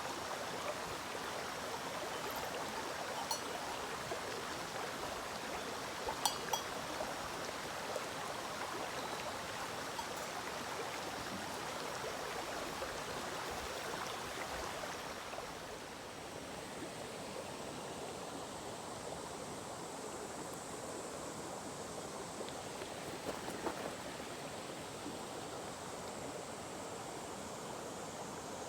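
Mountain stream flowing steadily over a rocky riverbed, with a few sharp clicks early on and again near the end. About halfway through the water becomes a little softer and a faint high steady tone joins it.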